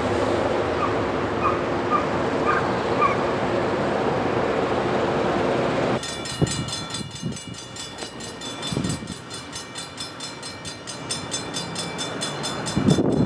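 Diesel freight locomotive approaching, running with a steady engine drone. About halfway through this cuts to a grade-crossing warning bell ringing with rapid, even strikes.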